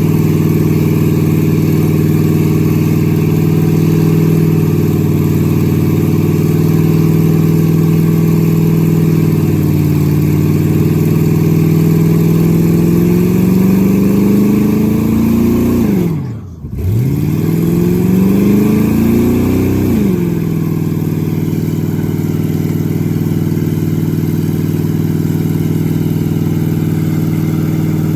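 Vehicle engine running with a steady drone. About two-thirds of the way through, its pitch drops sharply, the sound briefly fades, then the pitch climbs back and holds steady again.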